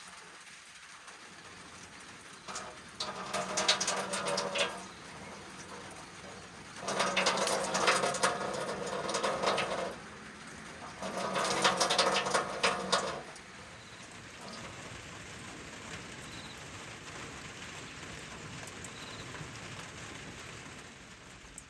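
Steady rain, with three louder sounds of two to three seconds each about three, seven and eleven seconds in.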